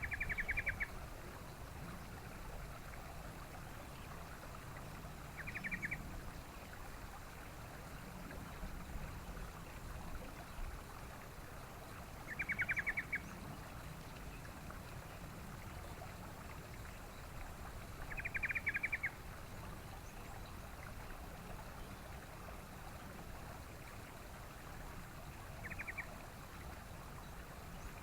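Yellow-vented bulbul (trucukan) giving short chattering calls, each a quick run of rapid notes, five times at roughly six-second intervals, over a steady low rumble of wind-like noise.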